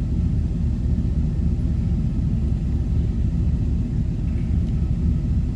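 Vehicle engine idling with the A/C compressor running, a steady low rumble heard from inside the cabin.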